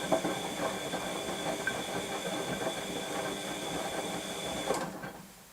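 Washing machine running, a steady high motor whine over busy rattling, which cuts off suddenly with a click near the end.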